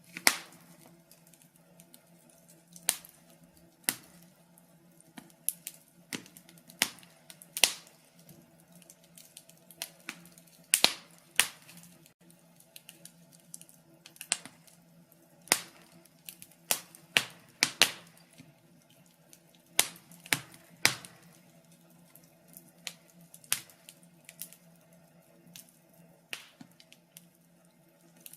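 Wood fire crackling in a fireplace: irregular sharp pops and snaps, roughly one a second, some much louder than others, over a faint steady low hum.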